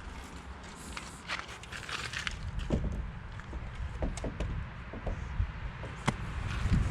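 Footsteps with scattered irregular clicks and knocks over a steady low rumble.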